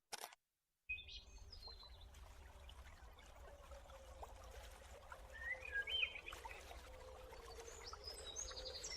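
An animal's short, high chirping calls, a few at a time: about a second in, a louder cluster near six seconds, and again near the end, over a steady low hum and hiss.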